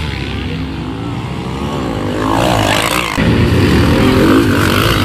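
Pit bike engines revving during a race, their pitch rising and falling as the bikes accelerate and shift. The engines get louder a little past halfway, as bikes pass close.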